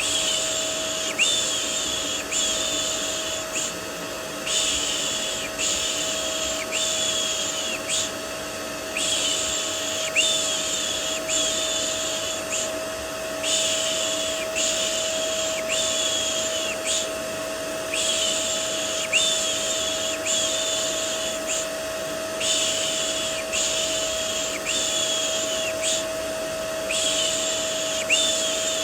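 Rhythmic "shh" shushing for soothing a baby, repeated about every 0.7 seconds in runs of five or six with short pauses between runs. Underneath runs the steady drone of a vacuum cleaner with a constant motor whine, played as white noise.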